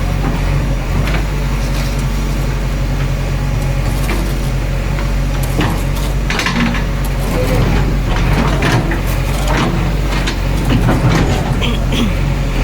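JCB 3DX backhoe loader's diesel engine running steadily under work, with scattered knocks and clatters about halfway through, typical of the loader bucket handling soil.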